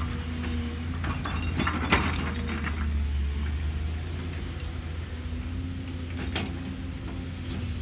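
Cat excavator's diesel engine running steadily, with a cluster of metallic clanks and scraping about two seconds in and a single sharp knock after six seconds.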